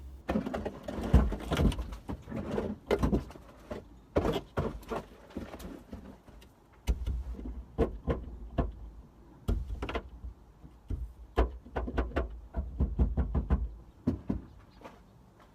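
Snow and ice being cleared off a car: an irregular run of knocks, taps and scrapes on the car's body and wipers, with stretches of low rumble.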